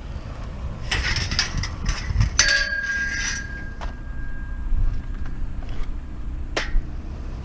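Pieces of scrap metal clattering as they are handled, then one metal piece struck, ringing with a clear bell-like tone that dies away over a couple of seconds; a single sharp click near the end.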